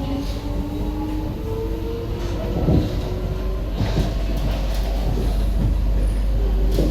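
SMRT C151B metro train running between stations, heard on board: a steady low rumble with an electric whine from the traction motors, and a few sharp clacks from the wheels passing over the track.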